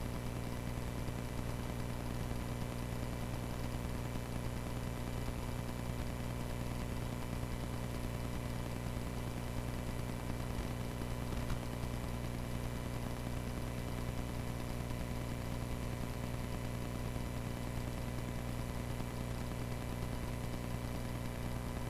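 Cessna 140A's piston engine running steadily at low taxi power, a constant drone that holds one pitch throughout.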